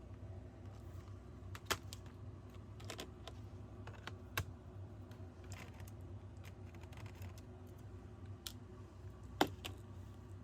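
Scattered sharp clicks and taps from hands working on a laptop's plastic case, about five in ten seconds with the loudest near the end, over a steady low hum.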